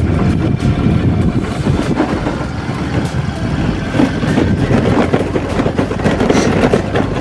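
Motorcycle engine running while riding, mixed with wind buffeting on a helmet-mounted phone's microphone.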